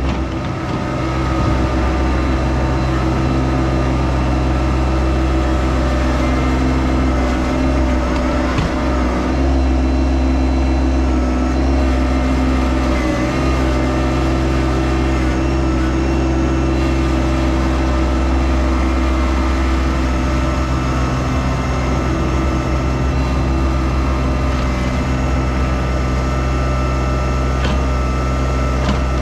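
Yanmar SA324 compact tractor's three-cylinder diesel engine running steadily.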